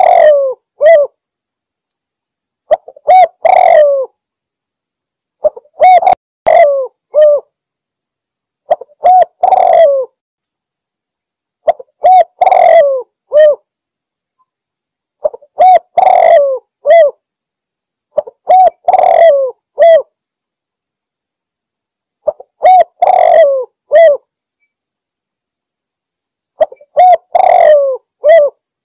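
Spotted dove (tekukur) cooing, the challenge call given to rival doves: nine loud phrases, one every three to four seconds, each a few short hooked coos around a longer coo, with dead silence between them.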